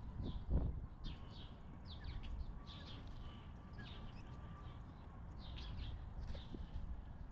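Small songbirds chirping, many short, quick calls in a steady stream, over a low outdoor rumble with a brief thump about half a second in.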